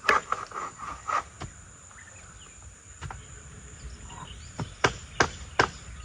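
Sharp tool strikes on wood, scattered at first, then four in quick succession near the end.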